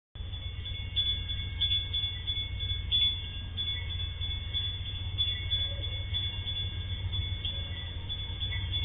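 A train running up to a level crossing: a steady low rumble, with a high-pitched ringing from the crossing's warning signal over it.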